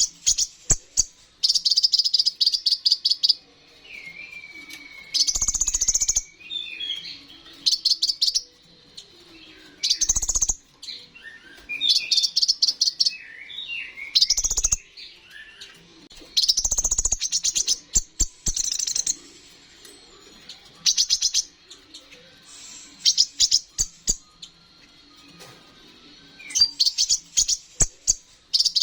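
Kolibri ninja sunbird singing in a loud, full song. Rapid, very high trilled phrases come every second or two, and softer, lower twittering notes fall between them.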